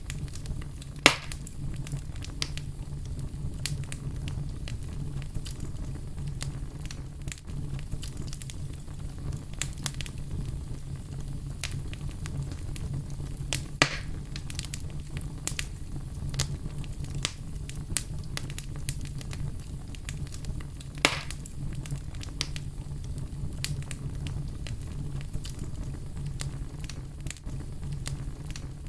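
Fire burning steadily with a low rumble and frequent crackles, including three louder pops about a second in, near the middle and about two-thirds through.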